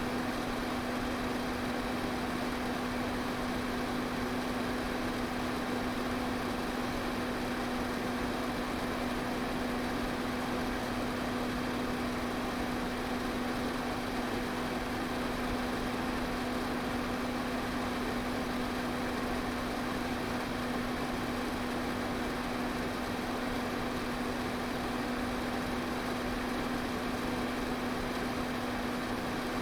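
Electric fan running steadily: an even rush of air with a constant motor hum under it.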